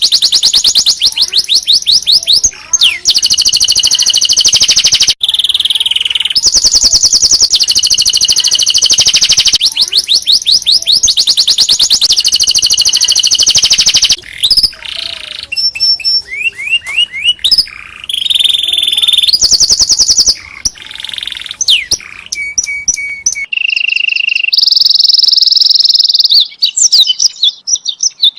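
Domestic canary singing a loud, continuous song of rapid high trills and rolls, switching to a new trill phrase every second or two.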